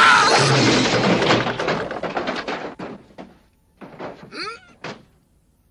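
Cartoon crash sound effect of a fall: a dense clatter of thuds and knocks that fades away over about three seconds, followed by a few short warbling sounds about four seconds in.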